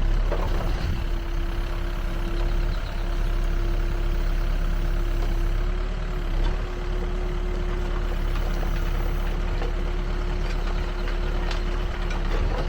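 Backhoe loader's diesel engine running steadily, with a steady whine held over it that shifts slightly in pitch about halfway through.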